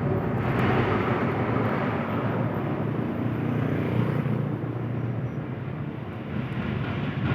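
Steady road traffic noise from vehicles passing on a highway: engine and tyre rumble, easing a little about six seconds in.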